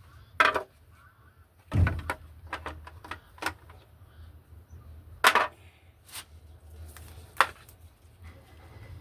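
Handling noise from reassembling a washing machine's control board: a handful of separate sharp clicks and knocks, with one heavier thump about two seconds in.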